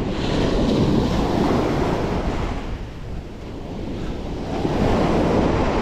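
Sea waves washing with wind buffeting the microphone, swelling, easing off around the middle, then building again.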